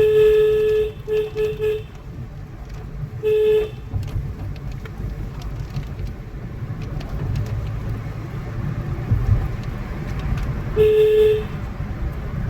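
Vehicle horn honking in separate blasts: one long blast, then three quick toots, another short blast a few seconds later and a longer one near the end. A steady low engine and road rumble runs underneath.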